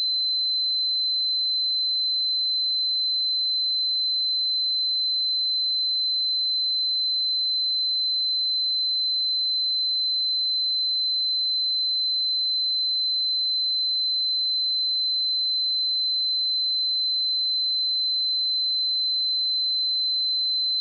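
Steady 4062 Hz sine-wave test tone: a single pure high-pitched tone held at constant pitch and level, used to check speakers or headphones.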